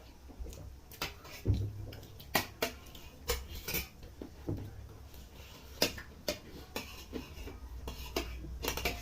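Spoons clinking and scraping against bowls in irregular taps as people eat kheer.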